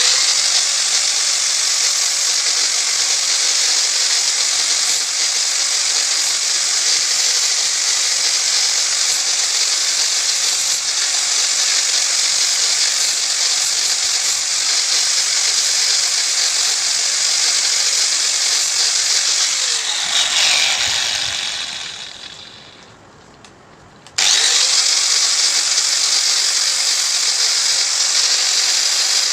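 Electric power tool running steadily with a loud high hiss, winding down with a falling pitch about twenty seconds in, then switched on again a couple of seconds later.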